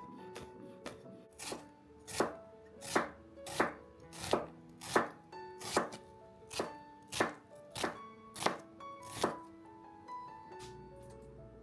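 Kitchen knife chopping food on a cutting board in about a dozen slow, even strokes, over soft background music.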